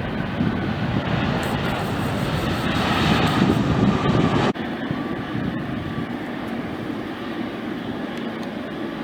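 Airliner engines passing, swelling in loudness for about four seconds. About four and a half seconds in the sound breaks off abruptly to a lower, steadier engine rush with a faint whine.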